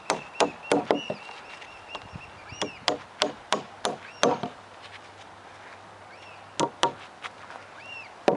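Steel hammer striking old galvanized nails into cedar picnic-table boards, in quick runs of blows about three a second. There are about five blows at the start, six more in the middle, and two near the end.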